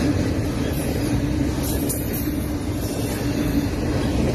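Double-stack intermodal freight cars rolling past, a steady rumble of steel wheels on rail with a constant low tone running under it.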